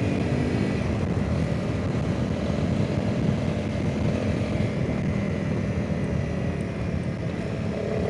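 Wind buffeting the microphone over the steady running of a Honda CRF300 Rally's single-cylinder engine at road speed.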